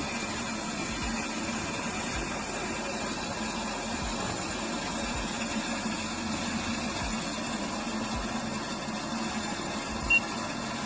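Vesta VH-199 hybrid tankless gas water heater running steadily under a 5 gallon-a-minute draw, its burner and combustion fan firing at about three-quarters of capacity: a steady hum. A short blip sounds about ten seconds in.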